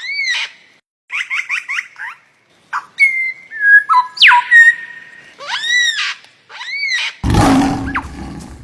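Squawking bird calls: arched, rising-then-falling squawks and a quick run of short falling chirps, then held whistle notes with one fast sweep in the middle. Near the end comes a rougher, lower noisy sound lasting about a second.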